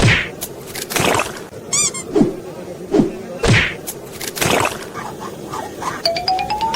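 Comic sound effects: a string of sudden thunks and whacks about once a second, some with a short falling pitch. Near the end a rising, stepped run of bell-like tones begins.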